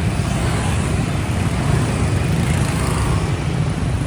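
Loud, steady city street traffic: a dense, unbroken wash of vehicle engine noise with a heavy low rumble.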